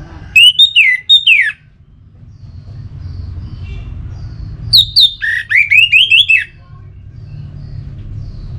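Orange-headed thrush singing: two loud phrases of quick, slurred whistled notes, the second about four seconds after the first, over a low steady rumble.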